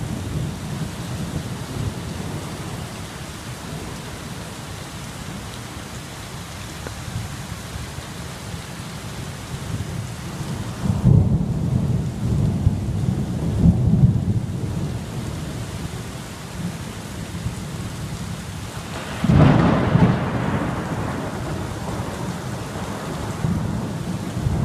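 Thunderstorm: steady rain with thunder. A long rolling rumble breaks out about halfway through, and a sharper, louder thunderclap follows about three quarters of the way in.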